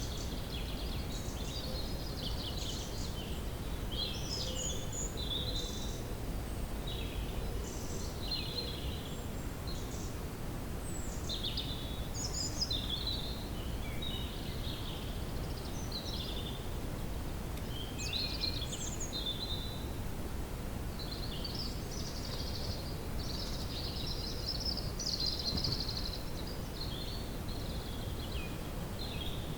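Woodland ambience: several birds chirping and calling in quick, overlapping short phrases, over a steady low rumble.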